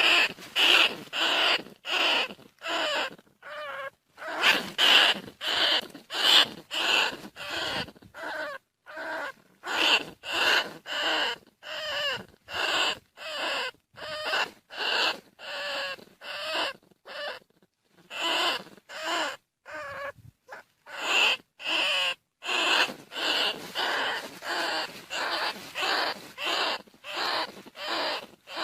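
Bandicoot rat calling: a rapid series of short squeals, about two or three a second, with short pauses between runs.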